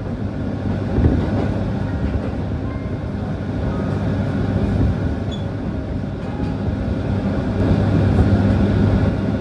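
Local passenger train running along the line, a steady rumble with a low hum and a single knock about a second in.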